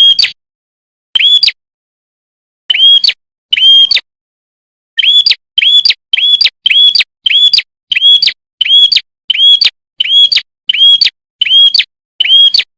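Prenjak kepala merah (red-headed prenjak) calling: a string of short, sharp, identical chirps, each rising then dropping in pitch. The chirps come scattered at first, then about two a second from about five seconds in.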